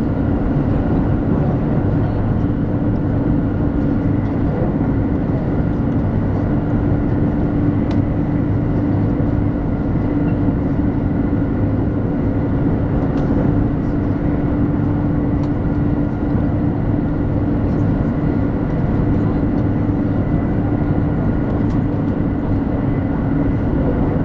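Interior running noise of a 200 series Shinkansen at line speed, heard from a passenger seat. A constant rumble of wheels and air carries a steady hum and a few faint ticks.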